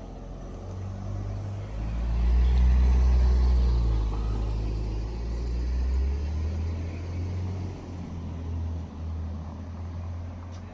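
A motor vehicle's engine running close by: a low, steady rumble that swells about two seconds in and eases off after about four seconds.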